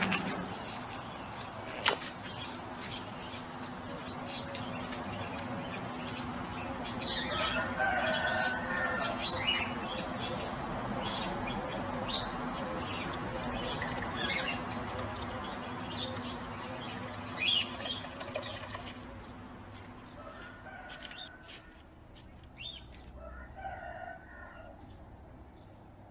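Birds chirping now and then over a steady background hum, with scattered light clicks; the hum fades out about three-quarters of the way through, leaving the bird calls clearer.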